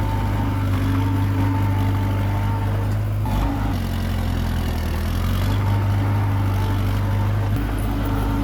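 Komatsu D21P bulldozer's diesel engine running steadily under work, its note shifting about three seconds in and again near the end as the load or throttle changes.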